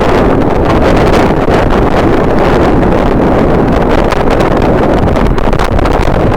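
Strong wind buffeting the camera microphone: a loud, steady rumble with small gusts.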